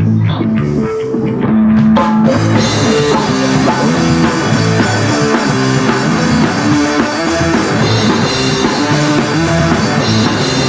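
Live rock band playing an instrumental intro: an electric guitar and bass riff, with the full drum kit and cymbals coming in about two seconds in.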